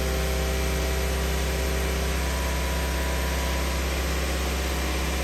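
Car engine idling steadily, a low even hum with a hiss over it: the donor car running to charge a dead battery through jumper cables.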